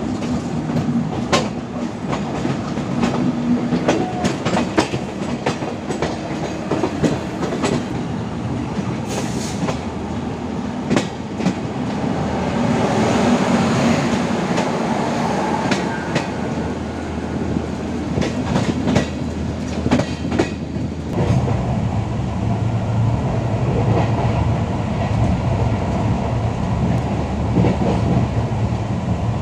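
Express passenger train running at speed: a continuous rumble with the clickety-clack of wheels over rail joints. About 21 seconds in, the sound changes abruptly to a deeper, steadier rumble.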